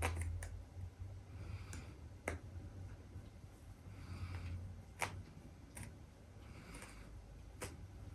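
Snorting or heavy breathing about every two and a half seconds, with a few sharp clicks in between.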